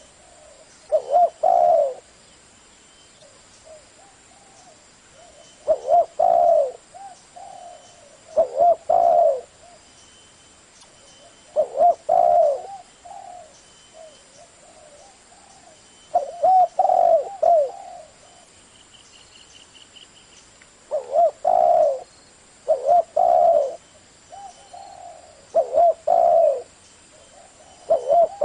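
Spotted dove cooing: short phrases of two or three low coos, repeated every few seconds with quiet pauses between.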